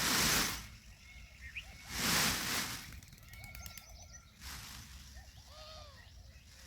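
Birds calling softly, a string of short low clucks and a few higher chirps. Two loud rushing noise bursts come at the start and again about two seconds in.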